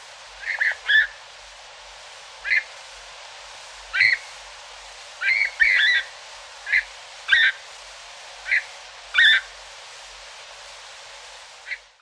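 Bird calls: about a dozen short, sharp calls at irregular intervals, some in quick pairs, over a steady field-recording hiss.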